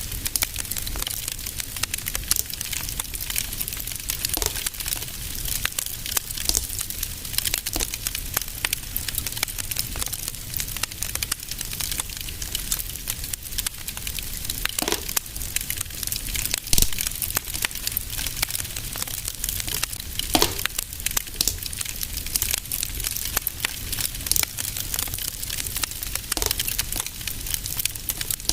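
Fireplace fire crackling: a dense, steady stream of small crackles over a soft hiss, with a few sharper pops, the loudest a little past halfway.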